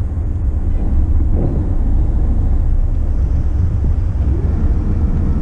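Steady low rumble of a motor yacht under way at slow speed, with a faint held tone near the end.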